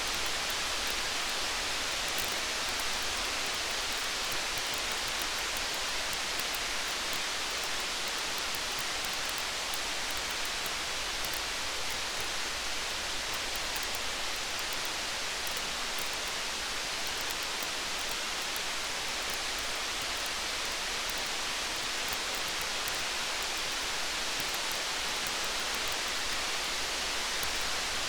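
Steady rain with a campfire: an even, unbroken rain hiss, with faint scattered crackles ticking through it.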